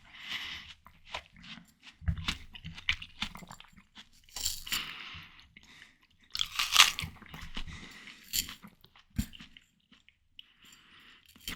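Close-miked biting and chewing of ripe watermelon: crisp crunches of the flesh and wet chewing, in irregular bursts with short pauses, the loudest bite about seven seconds in.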